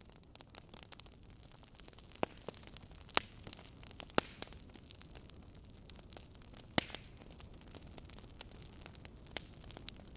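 Wood fire crackling: irregular sharp pops and ticks, a few louder snaps among them, over a steady low hiss.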